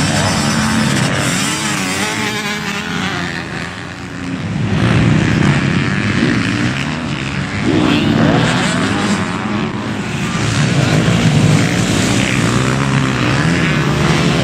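Motocross bike engine run hard, its pitch rising and falling again and again as the throttle opens and closes and the gears change.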